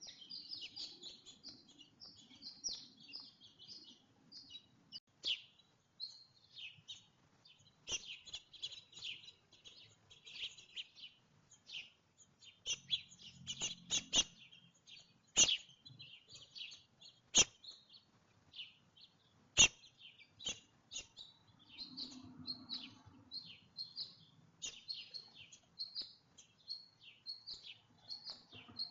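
Small songbirds at a feeder chirping and twittering in quick, overlapping calls. Several sharp taps stand out between them, the loudest sounds, mostly in the middle.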